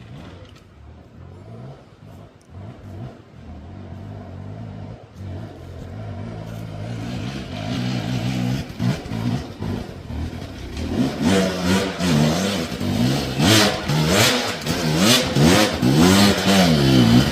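Dirt bike engine revving, faint at first and growing steadily louder as the bike comes closer, then revved up and down again and again as the rider works it up the rock step.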